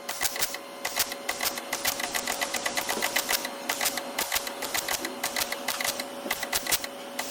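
Rapid, regular mechanical clicking, several clicks a second, over a faint steady whine.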